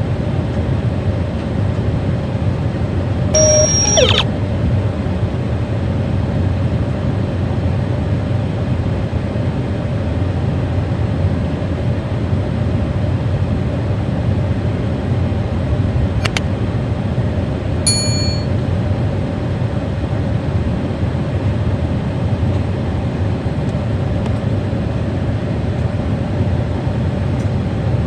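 Steady low rumble of jet aircraft engines at an airport. A brief high squeal comes about three and a half seconds in, and a short high ding comes about halfway through.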